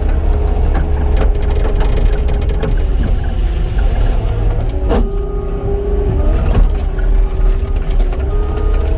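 Heavy equipment's diesel engine running under load with a hydraulic whine that dips and shifts in pitch as the controls are worked. There are scattered clicks and a sharp knock about five seconds in as the bucket works rock.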